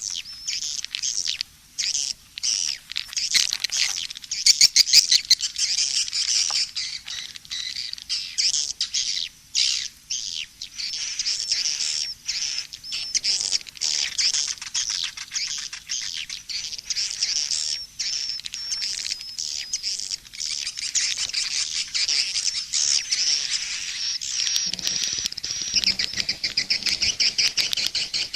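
Swiftlet calls played from a lure track: a dense, unbroken chatter of rapid high chirps and trills from many birds. It is a mixed 'SP' (calling) track of the kind played to draw edible-nest swiftlets into a swiftlet house.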